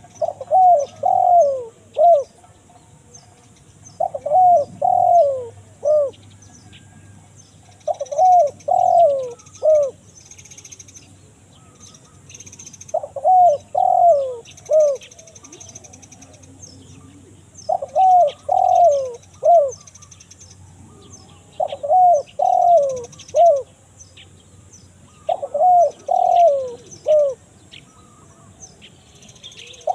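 Spotted dove cooing: a short phrase of about four falling coos, repeated about every four seconds. Faint chirps of small birds sound between phrases.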